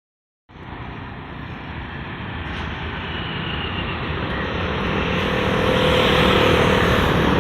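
Suburban electric train running, a steady rumble and rushing noise that grows steadily louder, with a faint whine coming in about halfway through.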